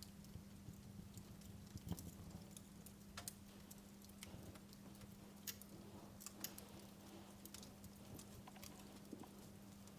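Wood fire in a fireplace crackling faintly, with scattered sharp pops at irregular intervals over a low steady hum.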